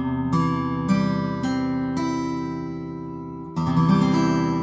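Acoustic guitar with a C chord fretted, its strings plucked one at a time about every half second and left ringing to check that each sounds clear, then the chord strummed about three and a half seconds in.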